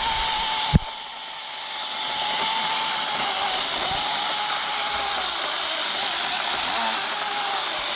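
Battery-powered LYNXX 40V chainsaw running with a steady high whine. A sharp knock comes just under a second in; the saw drops off briefly, then comes back up to full speed about a second later.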